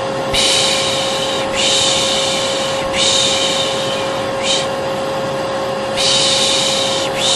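A vacuum cleaner running steadily with a constant hum, overlaid by a voice making long 'shhh' shushing sounds, about five of them, each lasting roughly a second with short gaps between: the 'piş piş' shush used to soothe a baby to sleep.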